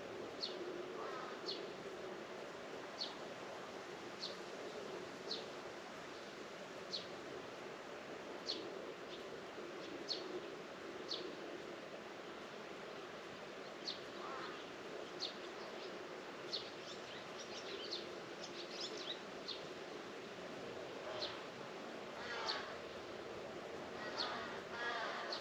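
Rural outdoor ambience: a bird repeating short, high call notes about once every second or so, over a steady low hum, with a few quick twittering phrases near the end.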